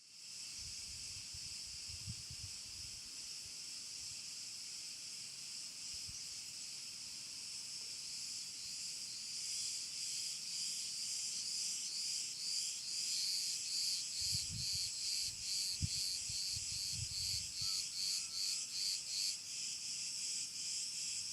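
A chorus of insects buzzing steadily at a high pitch. Through the middle it turns into an even pulsing, about two pulses a second, then goes back to a steady buzz. A few faint low thumps sit underneath.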